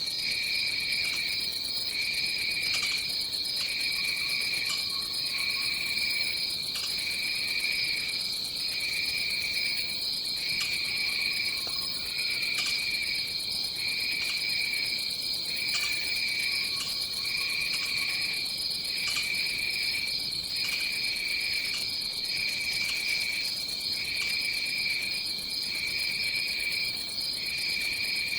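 Tropical rainforest insect chorus: a steady high drone, with a second, lower insect-like trill that pulses on and off about every second and a half.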